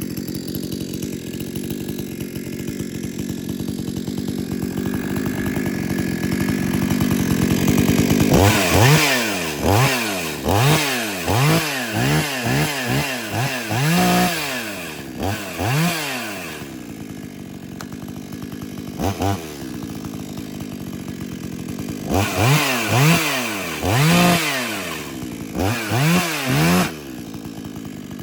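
Stark 6200 chainsaw's two-stroke engine idling, then revved in a quick string of throttle blips, each rising and dropping back. It settles at idle for a few seconds and then gets a second, shorter string of revs.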